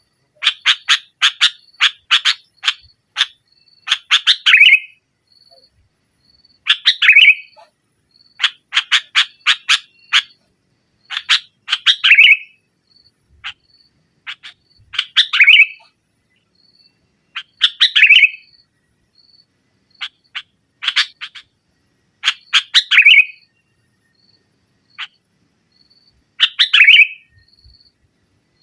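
Sooty-headed bulbul (kutilang) singing loud and persistent: repeated phrases of rapid sharp chattering notes, each closing on a louder, fuller call, every few seconds. Faint short high notes repeat in the gaps between phrases.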